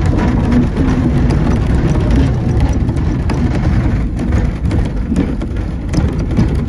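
A 2ft gauge narrow-gauge train running along the track, heard from aboard: a steady low rumble from the wheels with a constant rattle of clicks and knocks as the carriage rides over the rails.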